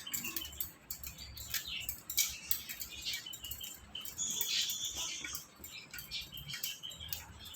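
Indian ringneck parrot moving about, making many small clicks and scratches, with a brief high chirp about halfway through.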